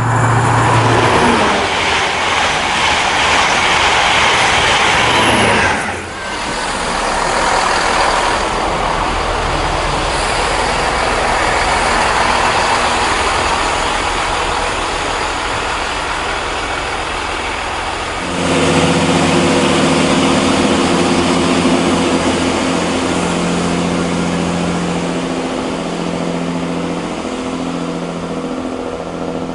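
Diesel multiple-unit trains running through a station on jointed track, with steady wheel and engine noise that drops off abruptly about six seconds in. About eighteen seconds in, a steady diesel engine drone with several held tones takes over, its notes stepping as the engine note changes.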